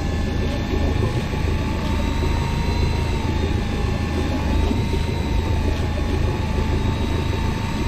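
A boat's engine running steadily: a low rumble with a whining tone that wavers slightly in pitch.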